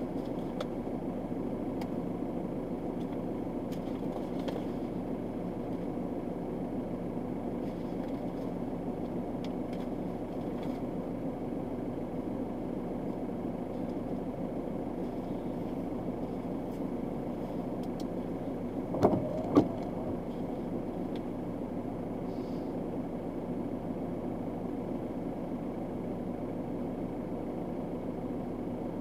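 Car engine idling steadily, heard from inside the cabin while the car stands still. Two short, louder sounds come close together about two-thirds of the way through.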